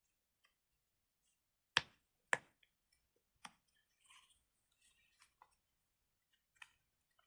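Plastic fidget toy being handled: two sharp clicks half a second apart, followed by a scatter of fainter clicks and taps.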